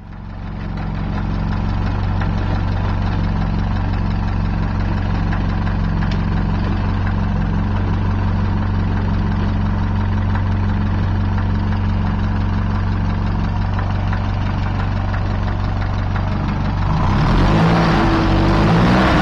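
Citroën Traction Avant 11 Perfo four-cylinder engine idling steadily. About three seconds before the end a louder sound with shifting pitches comes in.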